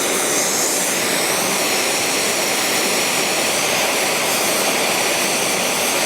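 Gas torch flame heating a crucible of lead, giving a loud, steady hiss.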